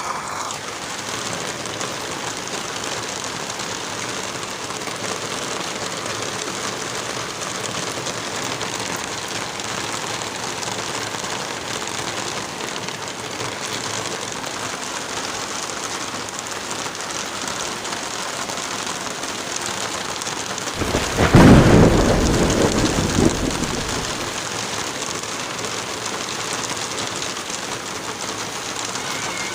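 Steady heavy rain, with a loud clap of thunder about two-thirds of the way through that rumbles for a few seconds before fading back into the rain.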